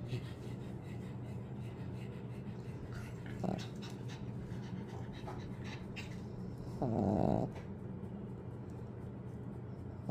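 Pekingese dog snoring in its sleep, with one louder snore lasting about half a second around seven seconds in.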